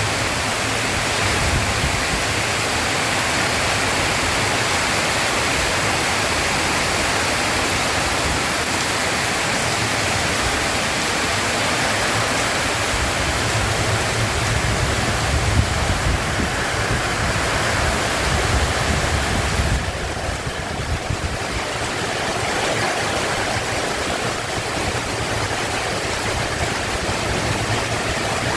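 Heavy rain pouring steadily: a dense, even hiss of falling water with a low rumble underneath and a brief dip in the high hiss about twenty seconds in.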